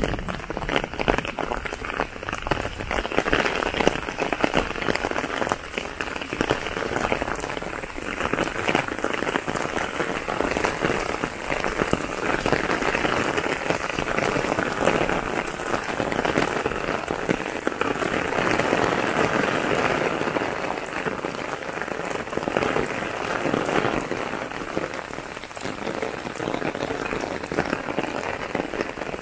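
Steady rain falling on a wet paved path and the pine trees and grass around it, a dense patter of drops that does not let up.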